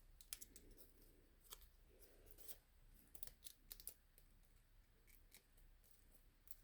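Faint, scattered clicks and light rustles of die-cut cardstock pieces being handled and slotted together.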